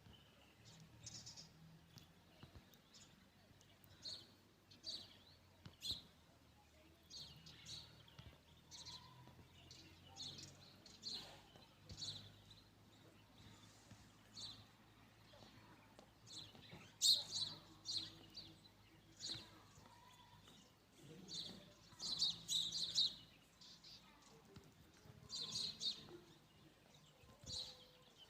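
Small birds chirping: many short, high chirps scattered throughout, coming in louder clusters in the second half.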